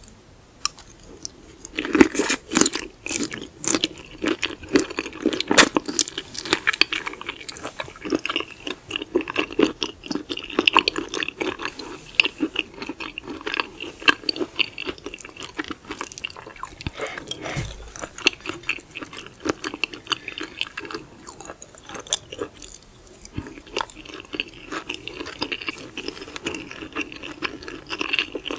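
Close-miked chewing of raw seafood: wet, crunchy bites with irregular crackles and clicks, starting about two seconds in and easing off briefly near the end before picking up again.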